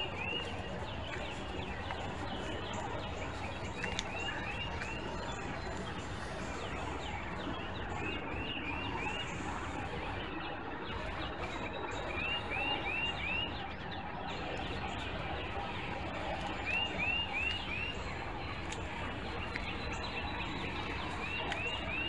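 A bird calling over and over: short runs of three or four quick, clear notes, repeated about every four seconds, over a steady background hiss.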